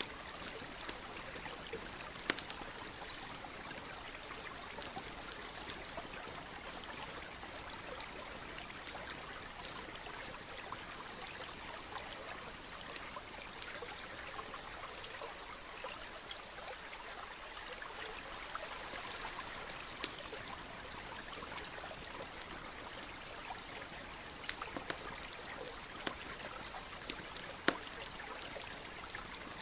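Campfire crackling, with scattered sharp pops over the steady rush of a nearby stream; the pops come more often near the end.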